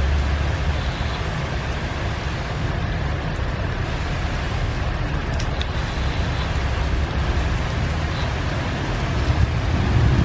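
Heavy rain falling steadily, with a low rumble of engines under the hiss. A motorbike passes close near the end.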